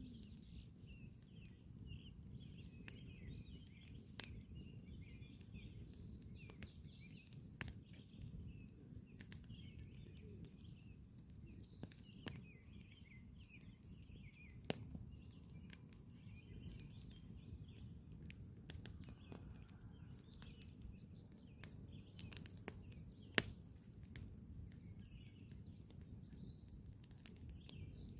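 Campfire crackling, with scattered sharp pops and one louder pop about 23 seconds in. Small birds chirp and twitter in the background.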